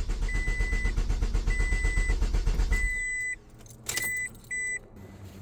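2007 Scion tC's 2.4-litre four-cylinder engine cranking on the starter with a rapid, even rhythm for about three seconds without firing, then the cranking stops. The car's high warning chime beeps at intervals throughout. It is a crank-no-start that new spark plugs, coils, battery and starter have not cured.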